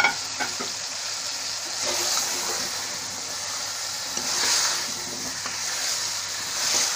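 Potatoes and tomato masala sizzling in a steel pot while a frozen block of boiled spinach is pushed and turned in it with a spoon. The hiss swells three times as it is stirred, and there is a sharp clink at the very start.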